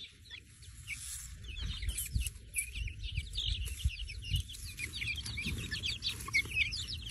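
A flock of chickens chirping and peeping, many short, high calls overlapping without a break, over a low rumble.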